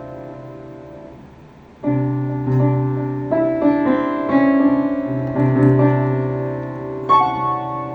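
Slow piano music: a held chord fades away, then new notes and chords are struck about every second.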